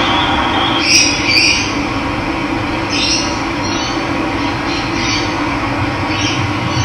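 Steady rush of running water with wild birds chirping over it: a pair of short calls about a second in, then single calls every second or two.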